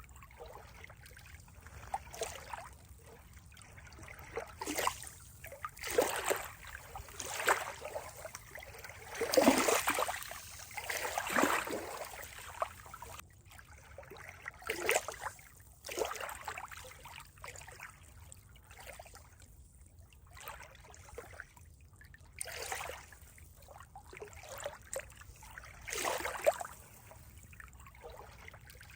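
Water trickling and splashing in irregular surges every second or two, the strongest about ten seconds in.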